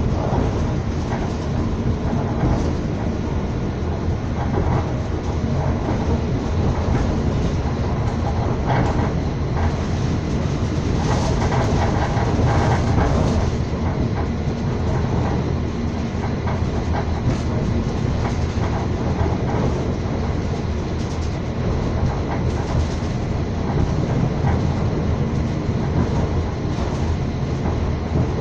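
Train running at speed, heard from aboard: a steady low rumble of the wheels on the rails, briefly louder near the middle.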